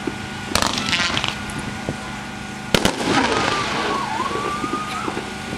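Winda 'Crazy Joe' firework going off: two sharp loud bangs, about half a second in and near three seconds, over steady crackling, with a thin wavering whistle in the later part.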